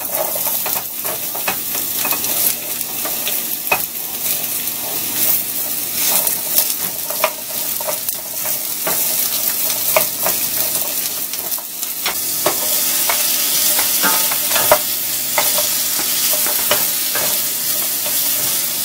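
Carrot sticks and sliced garlic sizzling as they sauté in hot oil in a skillet, stirred with a wooden spoon that scrapes and clicks against the pan. The sizzle grows louder about two-thirds of the way through.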